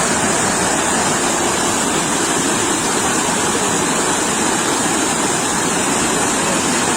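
Sea surf: waves washing on the shore, heard as a steady, unbroken rush.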